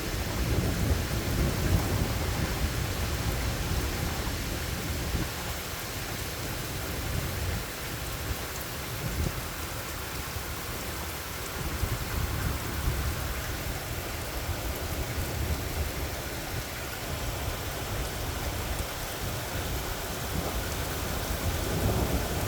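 Steady rain falling, with low rolling thunder rumbling underneath, strongest in the first few seconds and building again near the end.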